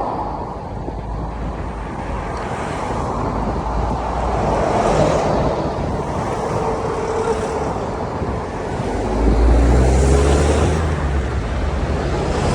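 Wind rushing over the microphone of a cyclist riding a road bike, with a motor vehicle passing about nine to eleven seconds in, when a low engine rumble swells up.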